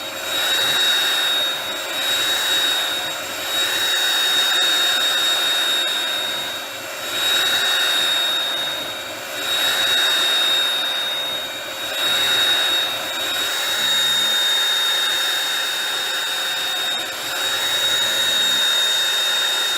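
Bissell Pet Hair Eraser cordless hand vacuum running with a steady high whine, its airflow swelling and easing every second or two as it is worked back and forth.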